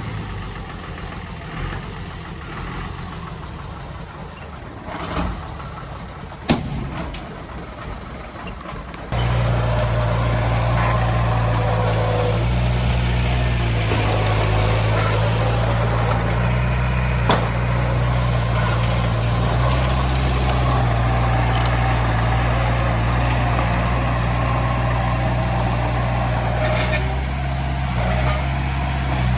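Heavy diesel machinery engine running, fairly quiet at first with one sharp knock, then much louder and steady from about nine seconds in.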